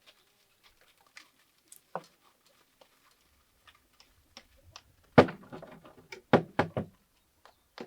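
Scattered light clicks and taps, then a heavy thud about five seconds in, followed by three more thuds in quick succession a second later.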